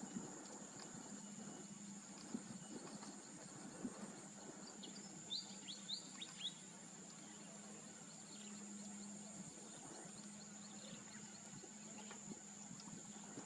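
Faint outdoor ambience: a steady high-pitched insect drone throughout, with a quick run of five or six short, sharp bird chirps about five to six and a half seconds in.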